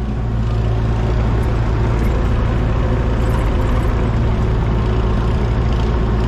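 A heavy engine running steadily with a continuous low hum.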